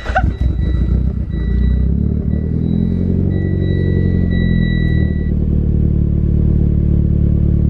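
Mitsubishi Lancer Evolution X's turbocharged four-cylinder engine fires up on its first start with new spark plugs and settles into a steady cold idle, its pitch wavering a little for the first few seconds. The car has a misfire that the new plugs did not cure, which the owner puts down to the injectors. A thin high tone sounds along with it until about five seconds in.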